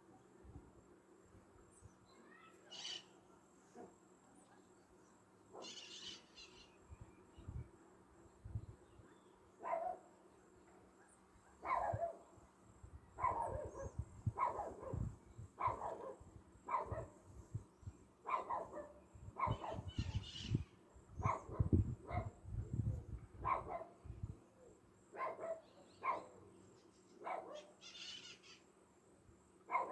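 Dog barking in a run of short barks, about one a second, starting about a third of the way in and thinning out near the end. A few bird chirps are heard before and between the barks.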